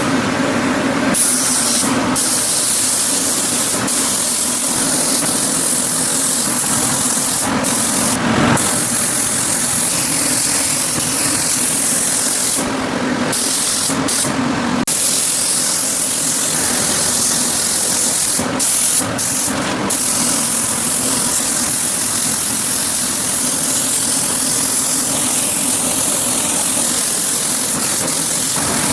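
Compressed-air paint spray gun hissing steadily, with a steady hum running underneath. The hiss stops briefly several times as the trigger is let go, then resumes.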